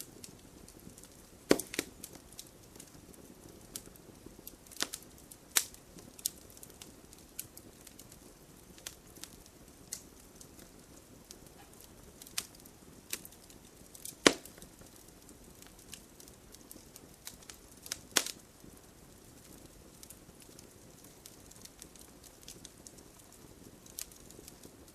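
Wood fire burning in a fireplace: irregular sharp crackles and pops over a low hiss, with the loudest pops about a second and a half in, around fourteen seconds and around eighteen seconds.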